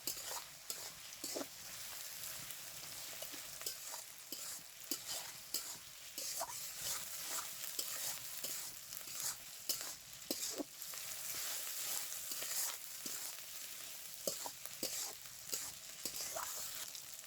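Onions, garlic, whole spices, cumin and ginger paste sizzling in hot oil in a pan, with a spatula stirring and scraping against the pan in frequent short clicks.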